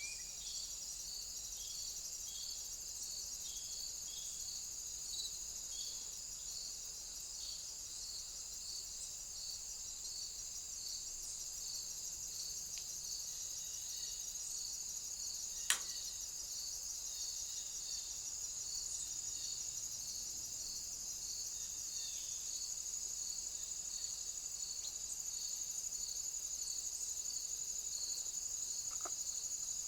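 Insects chirring: a steady high trill, with a second insect's regular pulsed chirps just below it. A single sharp click comes about halfway through.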